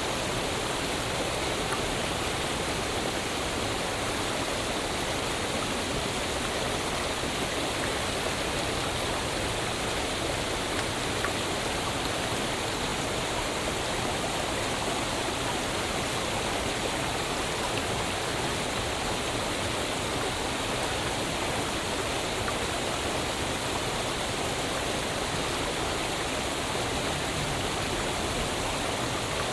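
Waterfall: falling water rushing with a steady, even roar that does not change.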